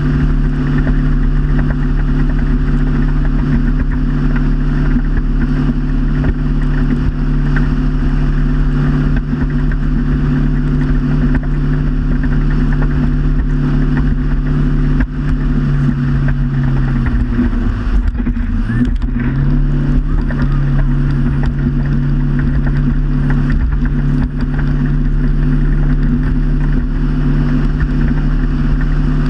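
Motorboat engine running steadily at cruising speed, with the rush of wind and water over it. About two-thirds of the way through, the engine note drops for a few seconds and then climbs back to where it was, as the throttle is eased off and opened again.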